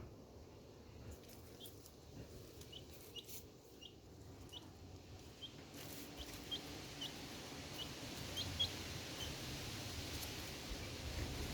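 Ducklings peeping: a string of short, high, upward-sliding peeps, roughly one or two a second, over a faint hiss that grows louder in the second half.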